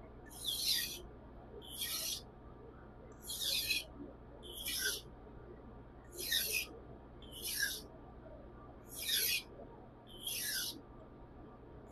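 Seki Magoroku nakiri blade being stropped in light finishing strokes, each a short scraping hiss that falls slightly in pitch, about eight strokes at an even pace of one every second and a half.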